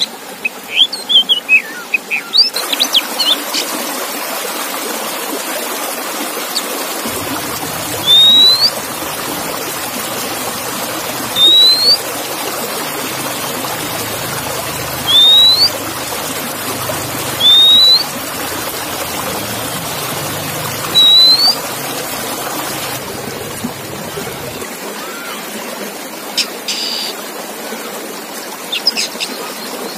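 Songbird calling: a burst of quick chirps at first, then five short rising whistles spaced about three seconds apart over a steady hiss, and more chirps near the end.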